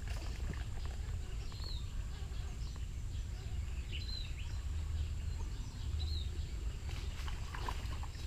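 A bird gives three short chirps about two seconds apart over a steady low outdoor rumble on the microphone. A faint high steady whine runs underneath.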